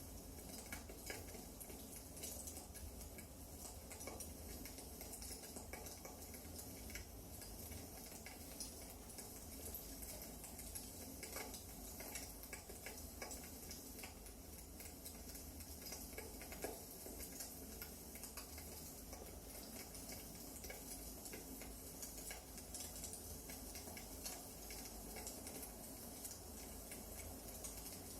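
Wood fire crackling in a fireplace: small irregular pops and snaps over a steady faint hiss.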